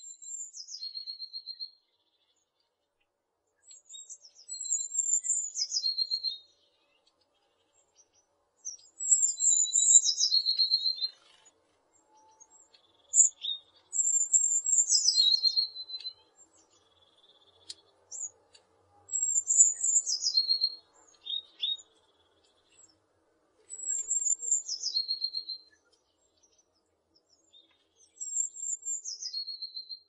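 A small songbird singing the same short, high-pitched phrase over and over, about once every four seconds: each phrase starts high and drops in steps to a lower trill.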